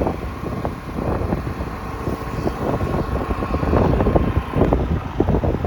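Vehicle on the move: a steady low road and engine rumble with wind buffeting the microphone and irregular knocks and rattles.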